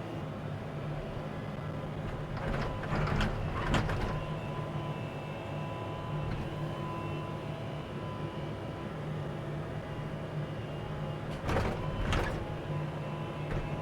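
Excavator's diesel engine running steadily while the bucket scrapes and knocks against rock in two short bouts, about two and a half seconds in and again near the end.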